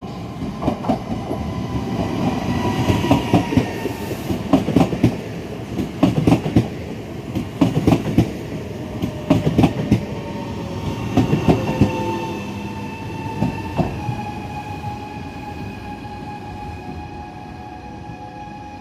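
Trenitalia Jazz electric multiple unit passing at low speed. Its wheels clack over the rail joints in pairs about every second and a half, over a steady whine from the electric drive. The whine sinks slightly in pitch and the whole sound fades as the train draws away.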